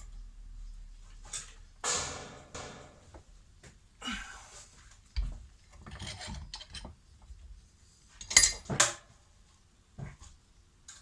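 Irregular scrapes, clinks and knocks of metal tools and parts being handled on a workbench. There is a sharp knock about halfway through and two more close together near the end.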